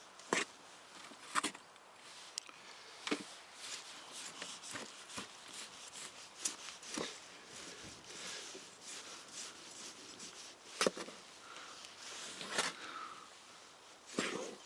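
Hands rummaging through loose potato-bucket soil, with irregular rustling and scattered light knocks and clicks.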